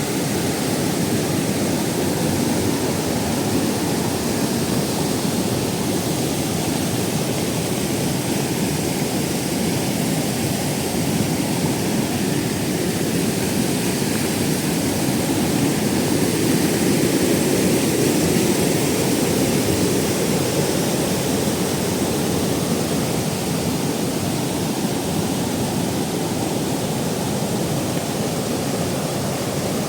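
Waterfall: a steady rush of falling water, swelling slightly a little past the middle.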